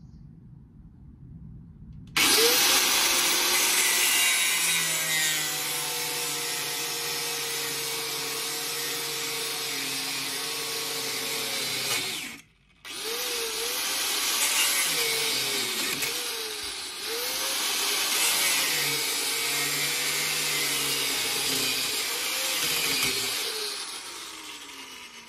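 Handheld electric power tool running in two long runs with a short stop about halfway, its pitch dipping again and again in the second run as it is pushed into the work.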